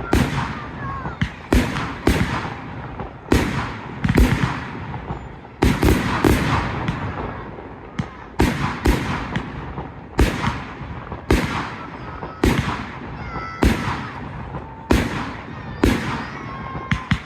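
Fireworks bursting overhead in a rapid series of loud bangs, roughly one or two a second, each one trailing off into echo.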